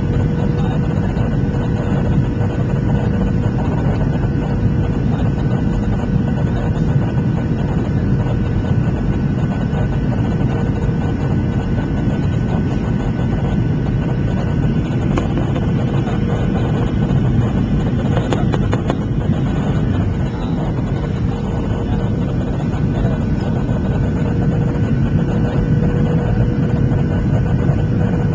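Cabin noise inside a Boeing 737-700 airliner in flight: a steady, deep rush of airflow and CFM56 engine drone, with a few steady whining tones on top.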